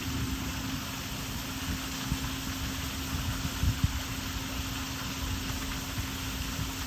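Wind buffeting the microphone in an uneven low rumble, over the steady hiss of a decorative fountain's splashing water.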